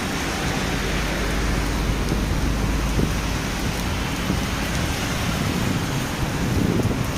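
Heavy rain falling steadily, with a low rumble underneath for the first three seconds or so.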